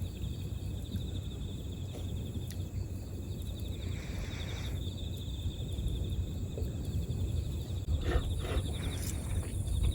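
Insects, crickets or the like, trilling steadily in a fast, even pulse, over a low steady rumble. A few brief clicks or rustles come near the end.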